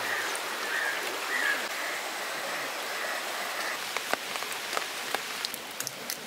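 Steady rain falling, an even hiss. From about four seconds in, single drops land with sharp ticks.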